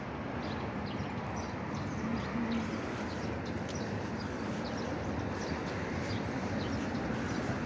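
Outdoor street ambience: a steady even hiss of background noise with many faint, irregular light ticks over it and a brief low hum about two seconds in.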